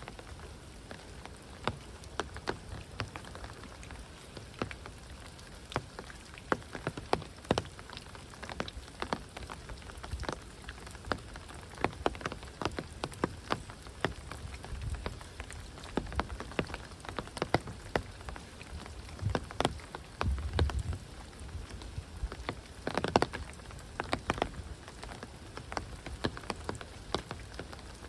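Heavy rain falling steadily, with many sharp, irregular close drip and drop impacts ticking over the constant hiss.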